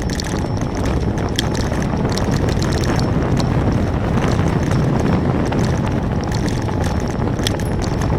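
Wind buffeting the microphone of a camera on a moving bicycle, a steady low rumble of air and road noise, with a few faint ticks.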